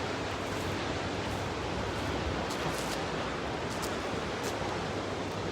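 Ocean surf breaking below a pier: big waves at high tide, heard as a steady, unbroken wash of noise.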